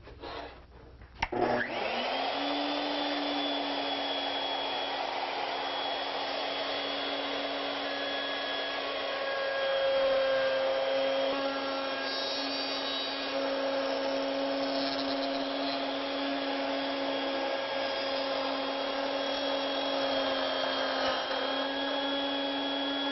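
Electric router motor on an overhead pin-router setup spins up about a second and a half in, then runs steadily at one pitch while it cuts a template-guided 1/4-inch pass through wood. It gets a little louder around the middle.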